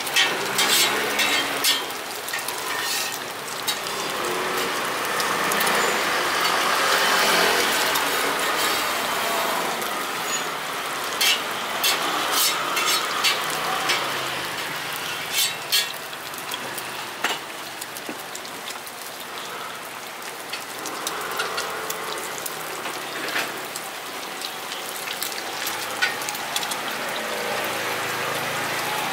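Food frying in hot oil: a steady sizzle with scattered sharp clicks.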